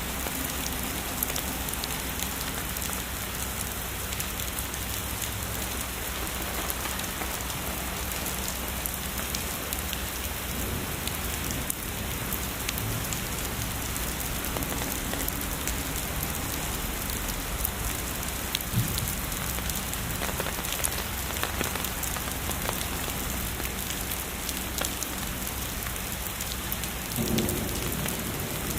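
Heavy rain falling steadily, a dense patter of drops. Near the end a low rumble of distant thunder begins.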